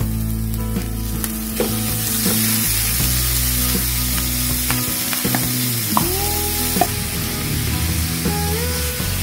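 Raw ground pork frying in a nonstick pan with sautéed onion and garlic. The sizzle grows louder about two seconds in as the meat lands, and a wooden spatula taps and scrapes against the pan.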